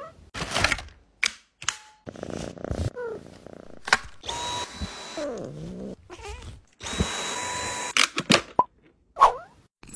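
Dyson cordless vacuum running with a steady whine in two stretches of a second or two each, between short cat meows and brief knocks.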